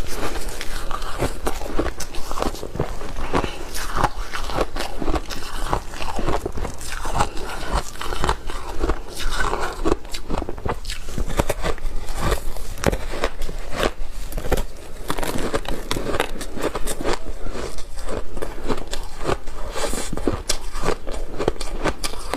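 Close-up crunching of ice cake coated with matcha powder being bitten and chewed: dense, irregular crunches and cracks following one another without pause.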